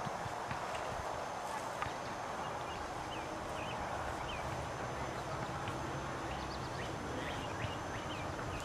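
Steady background noise with faint, short bird chirps scattered throughout.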